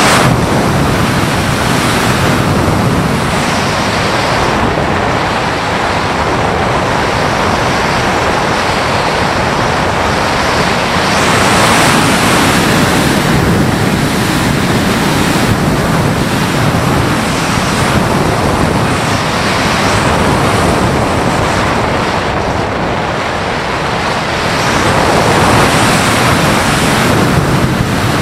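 Loud rushing wind noise from air streaming over a small onboard camera's microphone on a gliding RC sailplane, swelling and easing with no motor tone.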